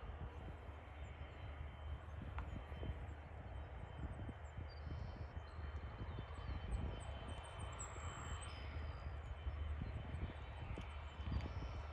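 Faint, steady rumble of a Bombardier Global 8000 business jet's GE Passport turbofans on the runway after landing, with a thin steady whine over it.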